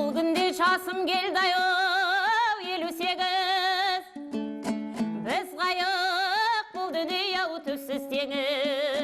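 Kazakh folk song in zhyr/terme style: a solo voice holds long, wavering notes with heavy vibrato over dombra strumming. There are three drawn-out sung phrases, the second opening with a swoop up in pitch, and the plucking comes through between them.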